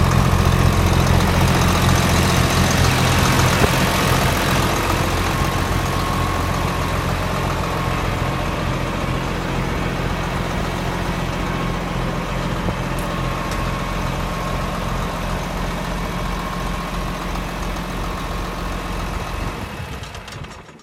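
John Deere 4450's six-cylinder diesel engine running steadily at a low idle, dying away near the end.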